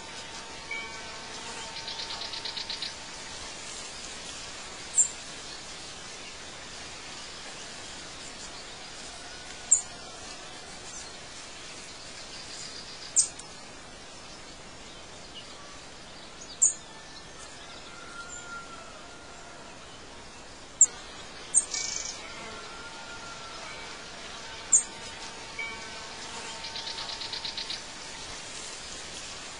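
Birds chirping: single sharp high chirps every three to four seconds, with a rapid buzzing trill about two seconds in and again near the end, over a steady soft hiss.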